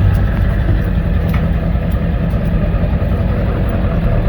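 A small vehicle's engine running steadily at low speed, with a few light clicks over it.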